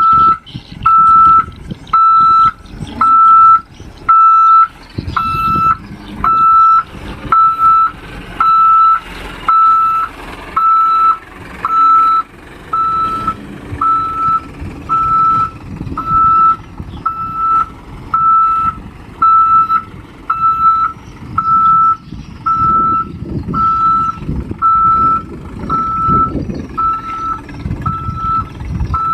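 Dump truck's reversing alarm beeping steadily, about once a second, over the rumble of its diesel engine running.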